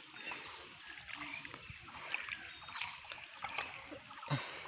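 Faint, irregular small splashes and sloshing of shallow muddy water, scattered ticks and drips over a low hiss.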